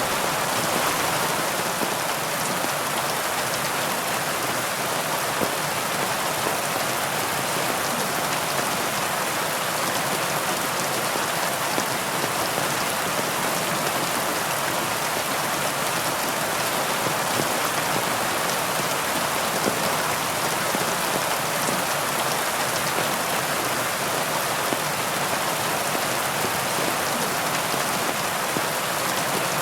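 Steady heavy rain, a dense even hiss of drops pattering on surfaces, with faint individual drop ticks and no change in intensity.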